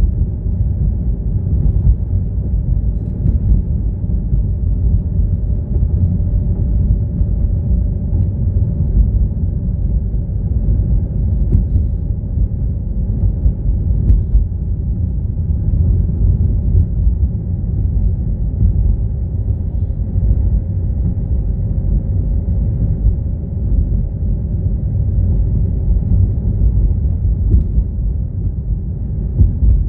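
A car being driven: a steady low rumble of road and engine noise, with a faint steady hum above it.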